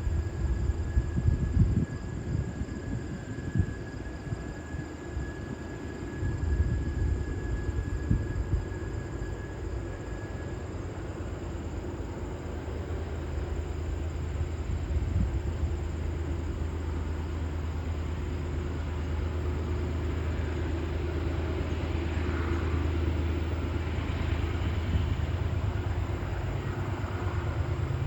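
Diesel-hauled freight train climbing a grade, its locomotives and rolling cars making a steady low drone that grows slightly louder over the second half, with a few knocks in the first seconds.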